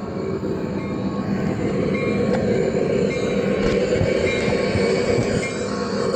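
A train running on rails: a steady rumble with several held tones over it.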